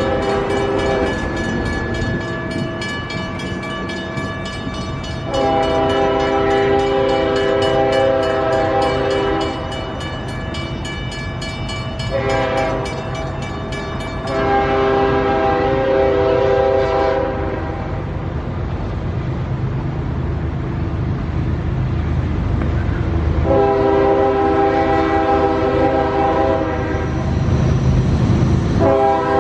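Diesel freight locomotive's multi-chime air horn sounding a series of blasts: one long blast ending about a second in, another long one, a short one, then a long one, the grade-crossing pattern. Another long blast starts near the end. Underneath runs the steady rumble of the locomotive and the rolling train.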